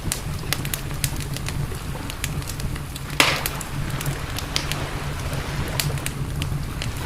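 Wood campfire crackling with scattered sharp pops, one louder snap about three seconds in, over a steady low rumble.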